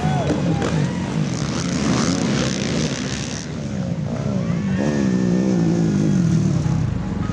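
Racing ATV (quad) engines revving, the pitch rising and falling as the throttle is worked, with a clear swooping rise and fall about five seconds in.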